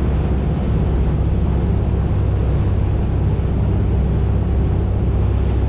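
Steady low drone of a passenger boat's engines heard on board while under way, with a constant rushing noise over it.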